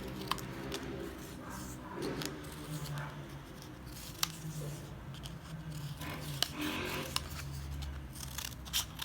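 Small scissors snipping through paper in short, irregular cuts, each snip a sharp click, as a shape is cut out along a drawn outline.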